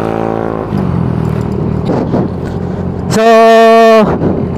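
Motorcycle engine running steadily, its pitch easing down in the first second and then holding. About three seconds in, a loud drawn-out spoken 'sooo' rises over the engine for under a second.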